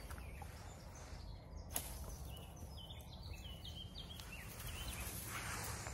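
Outdoor ambience: a small bird chirping a quick run of short high notes from about two seconds in, over a steady low rumble, with one sharp click just before the chirps.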